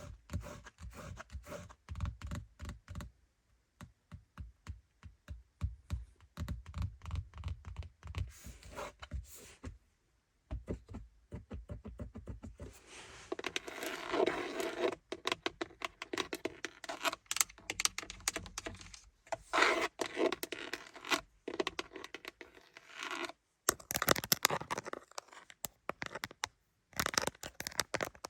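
Rapid tapping on car interior surfaces, each tap with a low thud, giving way about halfway through to denser scratching mixed with sharp taps.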